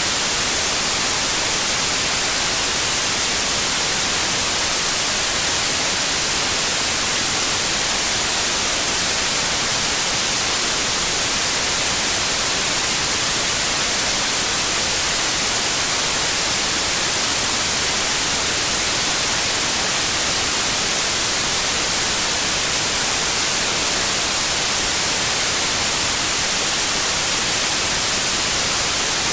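Steady white noise: an even, unbroken hiss, brightest in the treble, with no changes in level.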